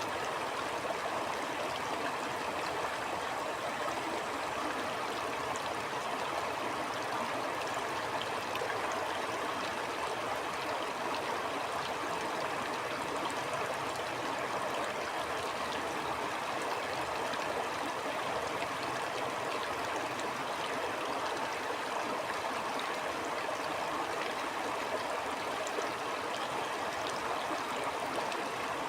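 Stream water flowing steadily, an even rushing and burbling with no change in level.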